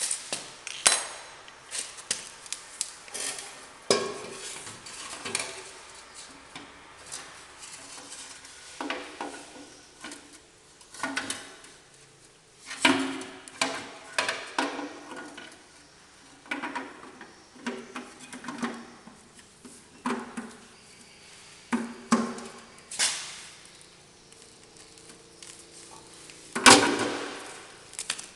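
Irregular metallic clinks and clanks of hand tools and engine parts being handled while an engine is taken apart and put back together, with one louder clank near the end.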